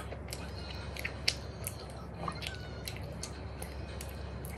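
Close-miked chewing of sweet potato pizza: scattered sharp mouth clicks, several a second, over a steady low hum.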